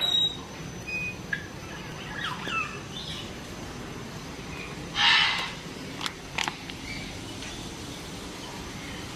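Scattered bird calls and short chirps over a steady low background din. The loudest is a brief harsh squawk about five seconds in, followed by a couple of sharp clicks.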